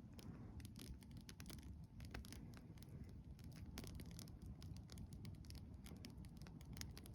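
Campfire crackling faintly, with irregular sharp pops and snaps over a low rumble.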